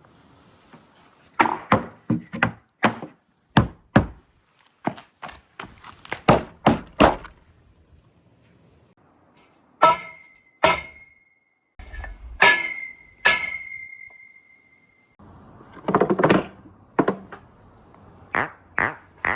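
Marbles rolling and dropping through a marble run, clacking and knocking against the track pieces. In the middle, four strikes ring out with a clear bell-like tone that dies away over a couple of seconds, then a quick cluster of clacks follows near the end.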